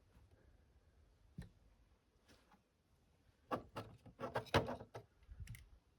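Light clicks and taps of a corroded radio battery pack being handled. One click comes about a second and a half in, then a quick run of several clicks and taps over the next few seconds.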